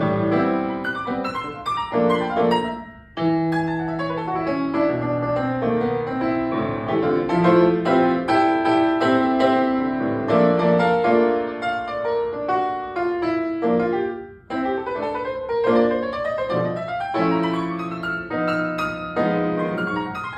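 Solo piano playing sustained chords under a melody line, with short breaks in the sound about three seconds in and again near fourteen seconds.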